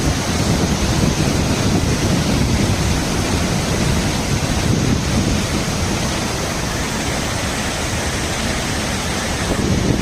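Steady rushing of water with wind buffeting the microphone, an even noise with no distinct events.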